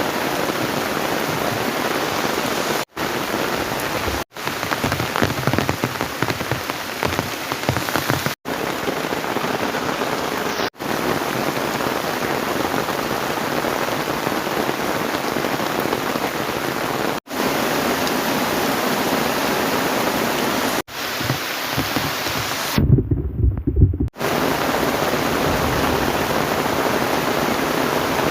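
Heavy tropical rain pouring steadily, an even dense hiss, cut off abruptly several times. A short low rumble comes about 23 seconds in.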